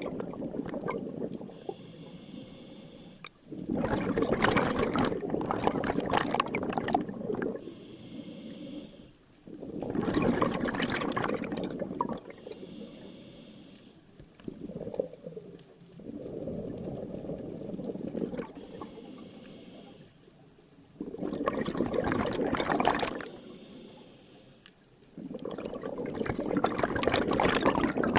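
Scuba diver breathing through a regulator underwater: long bubbling exhalations come about every five to six seconds, each followed by a quieter hissing inhalation.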